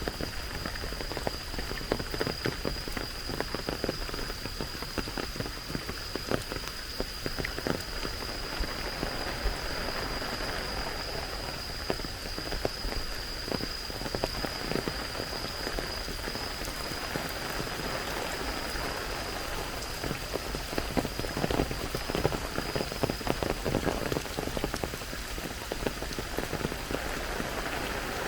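Steady rain falling, with many close, sharp drop strikes over an even hiss. A thin, steady high whine runs through it and grows fainter near the end.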